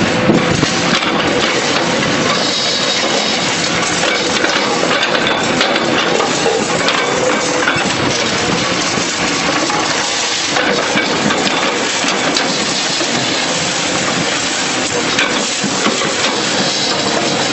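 Hydraulic concrete pulverizer on an excavator crushing concrete: continuous crunching and cracking of breaking concrete and rubble, over a steady machine hum.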